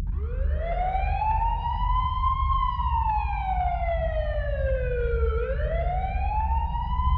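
Siren-like wail opening a song: one tone with overtones climbing slowly, sliding down for about three seconds, then climbing again, over a low steady rumble.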